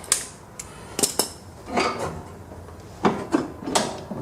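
Steel parts of a lawn tractor's mower-deck mounting (pins, hanger brackets, front piece) clanking as they are handled and set down: a series of sharp metallic knocks and clinks, some ringing briefly.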